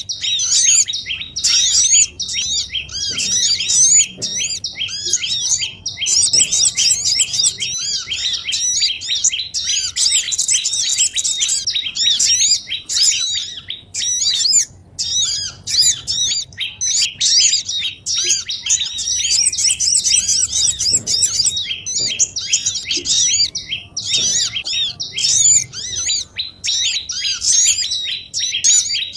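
Lure recording of small songbirds calling at once: a dense, unbroken chatter of rapid high chirps and twitters, used by bird trappers to draw small birds down.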